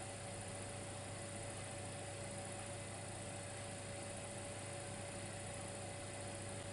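Dimplex electric fireplace running, giving a steady electrical hum with a faint high tone over soft hiss.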